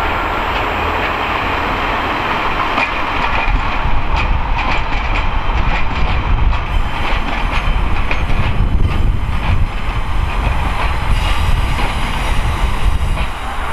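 A diesel multiple unit passes along the adjacent track with a low engine rumble. Its wheels clatter over rail joints and pointwork in a run of sharp clicks through the middle, which thin out near the end as the train clears.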